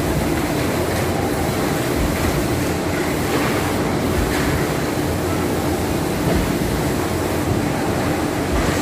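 Steady machine noise: a continuous low rumble and hiss with a faint steady hum.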